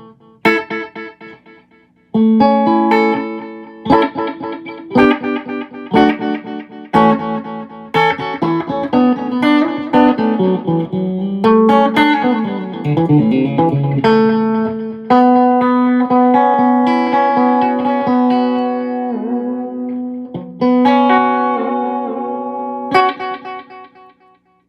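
Electric guitar played through the right-hand delay channel of a Visual Sound Dual Tap Delay pedal: a run of plucked chords and single notes, each struck sharply and ringing away, with the sound fading out near the end.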